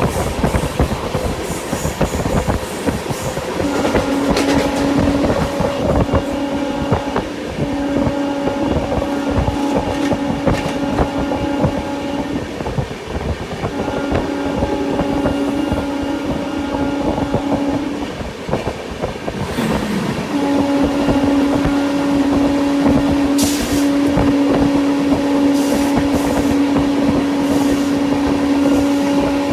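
Passenger train running at speed, its wheels clattering and rumbling over the track. A steady low tone with overtones sounds for several seconds at a time, breaking off twice.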